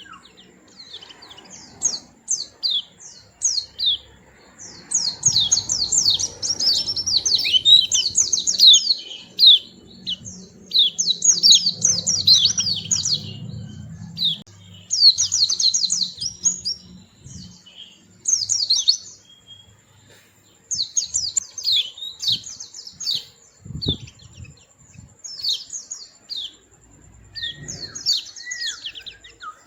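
White-eye (pleci) singing: bursts of rapid, high twittering chirps, each burst a second or two long, repeated over and over. Two dull low thumps come near the end.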